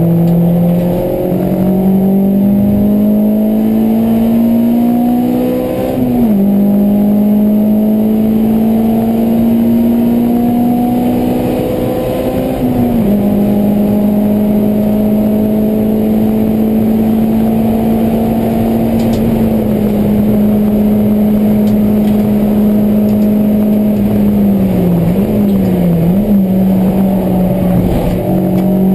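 Honda Civic EK4's 1.6-litre VTEC four-cylinder heard from inside the cabin at full track pace. The engine note climbs slowly, drops at a gear change about six seconds in and again near thirteen seconds, holds steady for a long stretch, then dips briefly twice near the end.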